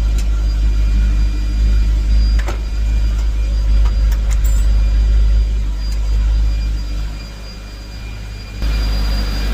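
Campagna T-Rex RR's Kawasaki ZX-14 inline-four engine idling steadily while it warms up so the oil drains more easily, with a few light clicks over it.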